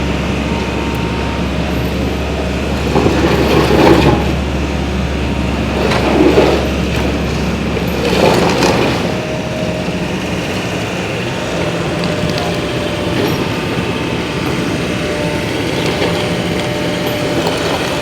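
A heavy demolition machine's engine running steadily, with three louder surges of noise about three, six and eight seconds in.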